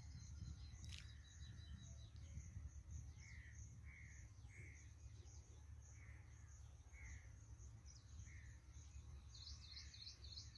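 Faint outdoor birdsong: a bird repeating a short call about once a second, then a quick run of high chirps near the end, over a steady high insect hum and a low rumble.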